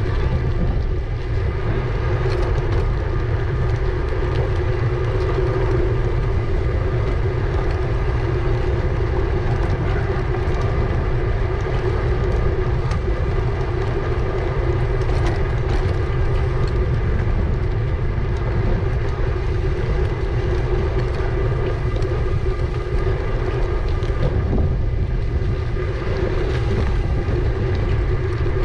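Steady riding noise from an e-bike on the move: a heavy low wind rumble on the microphone over a steady hum.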